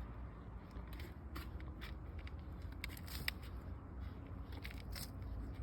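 Irregular short crackles and scrapes, about a dozen, over a low steady background hum.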